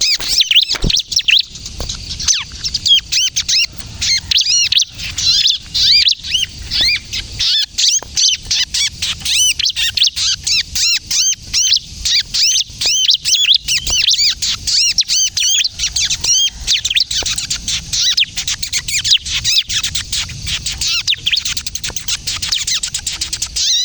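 Bar-winged prinia (ciblek kristal) singing a fast, unbroken stream of high, thin chirps and twittering notes in the 'kejepit' style that keepers use to lure wild ciblek and prompt caged birds to sing.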